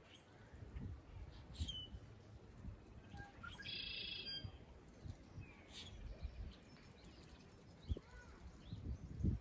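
Birds calling: one buzzy call of under a second about midway, with a few short high chirps around it. Low thumps sound near the end, the loudest just before it finishes.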